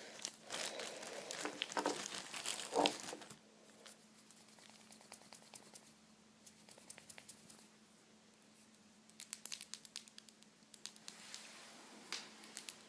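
Crinkly plastic being handled close to the microphone: a dense stretch of crinkling in the first three seconds, faint scattered ticks, then a run of sharp crackles from about nine seconds in and again near the end.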